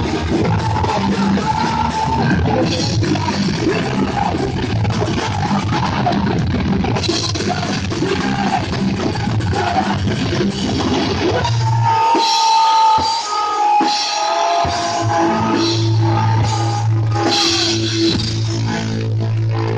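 Live punk hardcore band playing loud, with drums and distorted guitars. About twelve seconds in the low end drops out briefly over a held high guitar tone, then a long low chord rings out through the rest.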